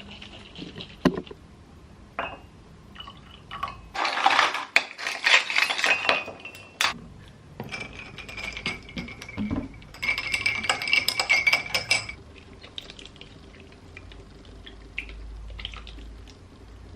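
Household clatter: glassware and dishes clinking, with two louder busy stretches of handling, one in the first half and one after the middle, where something may be poured.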